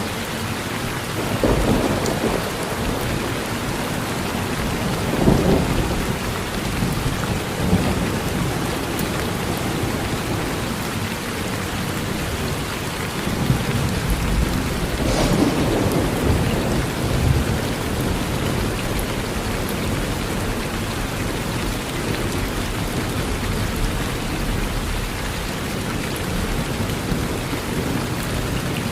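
Steady rain falling on a porch, with distant thunder rumbling low several times, swelling and fading.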